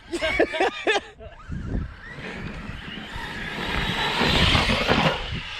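Electric Arrma RC truck running across dirt, its motor and tyres whirring louder to a peak about four seconds in, then fading.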